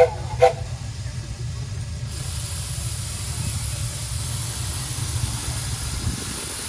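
A steam locomotive lets off a steady hiss of steam that starts suddenly about two seconds in, over a low rumble. Two short pitched tones sound right at the start.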